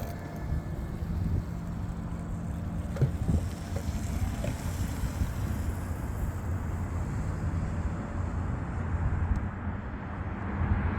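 Wind buffeting the microphone and steady road rumble from a moving e-bike, with a few light clicks about three seconds in.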